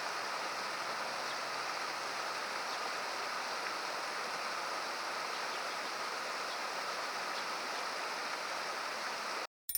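Steady rush of a stream flowing through a rocky gorge, cutting off abruptly near the end.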